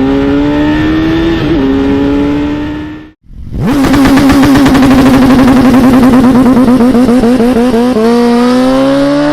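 Sport motorcycle engine at full-throttle acceleration, its pitch climbing through each gear and dropping at upshifts, once about a second and a half in. The sound cuts off abruptly about three seconds in, and a second superbike engine takes over, pulling hard with a slightly warbling note and upshifting again near the end.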